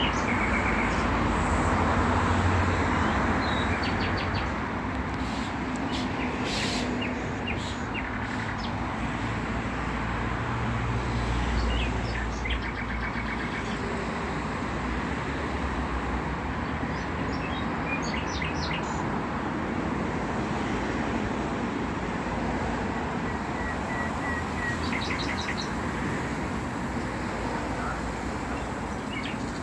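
Outdoor ambience: a steady hum of passing traffic, with a vehicle rumble swelling briefly twice, and small birds chirping and trilling throughout.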